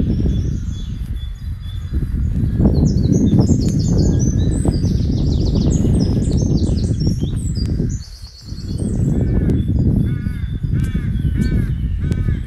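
Woodland birds singing in quick high phrases, then a bird calling over and over in short repeated notes in the last few seconds, over a loud low rumbling noise that drops away briefly about eight seconds in.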